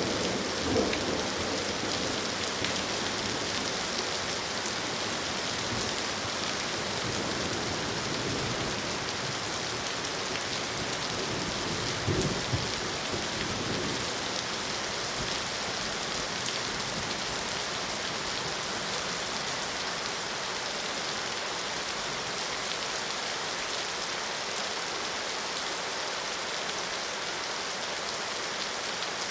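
Steady rain falling, an even hiss of drops on surfaces. A brief low rumble comes about a second in and another about twelve seconds in.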